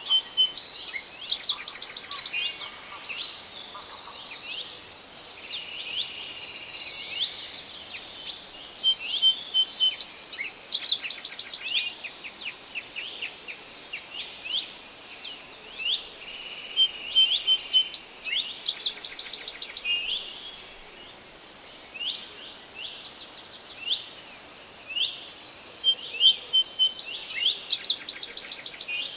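Several forest birds singing at once: overlapping chirps, rapid trills and short whistled phrases over a faint steady hiss of forest background.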